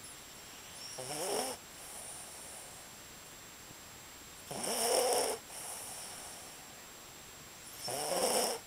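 A sleeping dog snoring: three loud, rasping snores about three and a half seconds apart, each followed by a softer breath.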